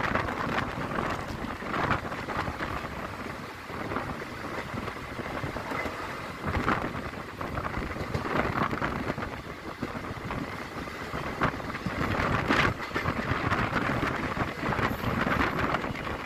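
Passenger train running at speed, heard from an open window: a steady rumble of wheels on the rails with wind buffeting the microphone, and a couple of louder clanks about halfway through and again later.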